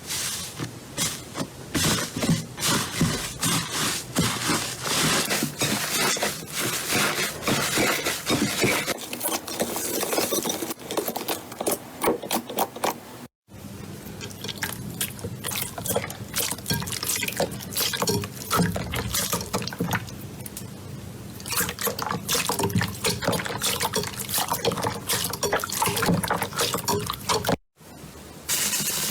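Slime being squeezed and kneaded by hand: dense, irregular wet clicks, pops and squelches, broken twice by a brief silence.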